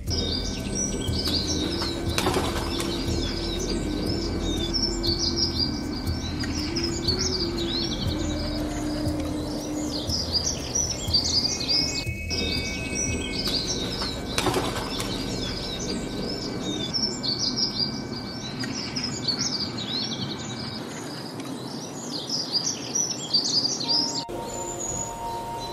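Small birds chirping and singing together, a dense, continuous run of quick high chirps.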